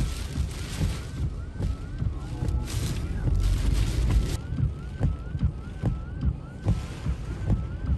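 Strong storm wind buffeting the microphone with a heavy rumble, and gusts of wind-driven rain hissing, the loudest surge about three seconds in. A faint repeating rising electronic tone sounds about twice a second underneath.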